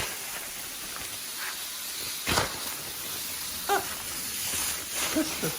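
Dry rice grains pouring and scattering across a hard floor, a steady hiss, with one sharp knock about two seconds in.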